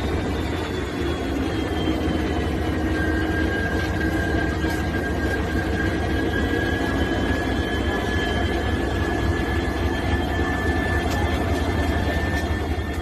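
WDP4D diesel-electric locomotive running steadily: a heavy low engine rumble with a high whine that drifts slowly in pitch.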